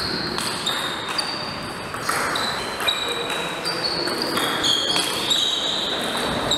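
Table tennis play in a hall: the celluloid ball clicks sharply off the bats and the table at an irregular pace. Short high squeaks and faint voices sit in the background.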